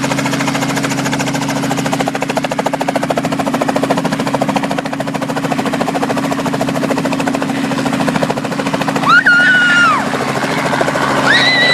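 Helicopter running, a loud steady hum with rapid, even rotor chop. A high-pitched human cry rises over it twice near the end.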